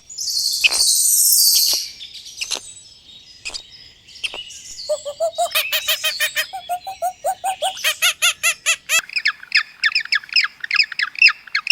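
Birds calling: a loud, harsh high hiss for the first second and a half, then from about five seconds in a run of short repeated calls, turning near the end into quick high chirps at about three a second.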